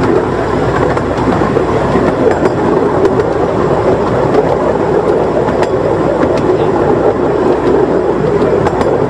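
Miniature railway train running along the track, heard from on board a passenger carriage: a steady rumble of wheels on rails with scattered light clicks.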